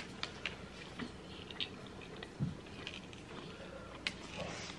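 A person chewing a mouthful of burrito close to the microphone: faint, scattered wet mouth clicks and soft smacks, with a sharper click about four seconds in.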